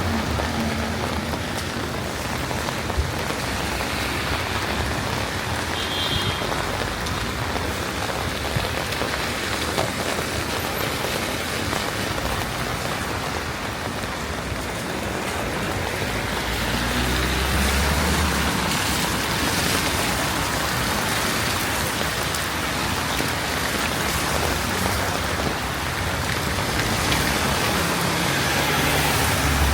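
Steady rain falling, an even continuous hiss. A low rumble swells briefly about seventeen seconds in and again near the end.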